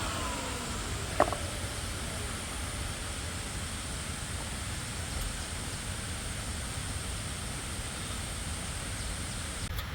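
A power tool's motor winding down after being switched off, its pitch falling. A single sharp click about a second in, then a steady low background rumble.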